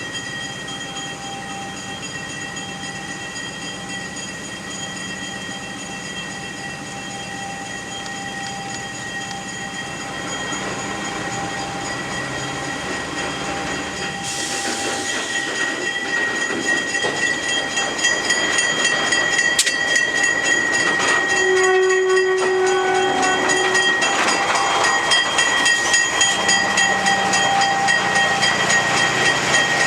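A locomotive running close by, its low engine hum giving way to a louder rumble and rhythmic rail clatter as it moves, with one short horn blast about 22 seconds in.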